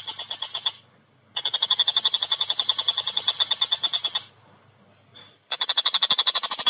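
Tengkek buto kingfisher giving rapid chattering call series, about a dozen sharp notes a second. It comes in three long runs, broken by two short pauses.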